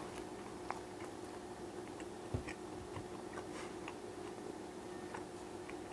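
A person chewing a mouthful of laser-cooked pancake, with small soft clicks of the mouth scattered through, over a faint steady hum.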